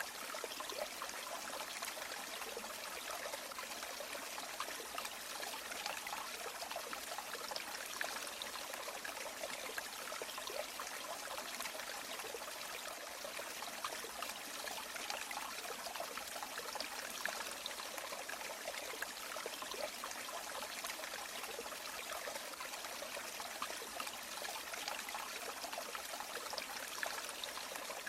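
River water flowing steadily, an even rush with fine bubbling and trickling and little deep rumble.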